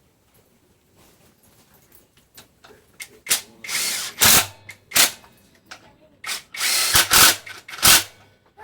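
Metalworking on a motorcycle frame: after a quiet start, a series of loud, harsh short bursts of noise and sharp knocks, some half a second long, others quick strikes.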